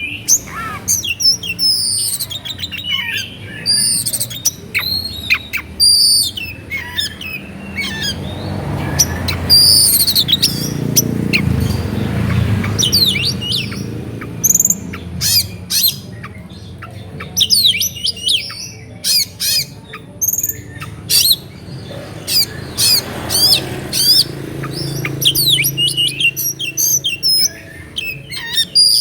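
Oriental magpie-robin (kacer) in full, continuous song: a rapid, varied run of sweeping whistles mixed with harsh chattering notes. Under it, a low rumble rises about a third of the way in and again near the end.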